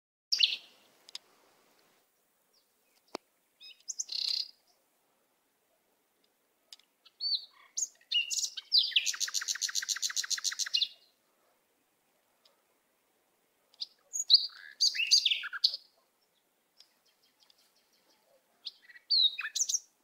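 Small brown songbirds calling in short bursts of high chirps, with a rapid chattering trill of about ten notes a second, lasting a couple of seconds, near the middle. One sharp tap sounds about three seconds in.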